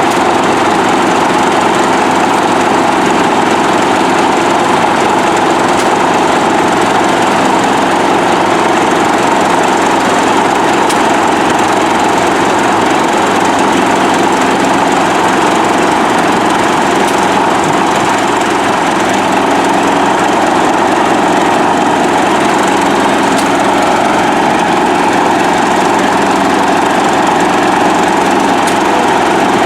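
Small stationary diesel engine running steadily, with a motor running alongside it.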